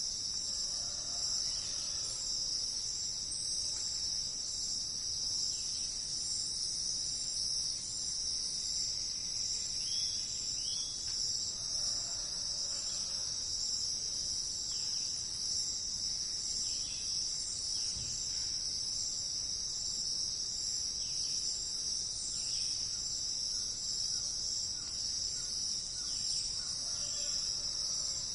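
Steady, unbroken high-pitched chorus of insects, with faint short bird calls now and then beneath it.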